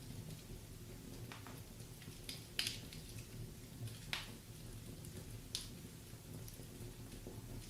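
Wood fire in a fireplace crackling: irregular sharp pops and snaps, the loudest about two and a half seconds in and just after four seconds, over a low steady rumble of the burning fire.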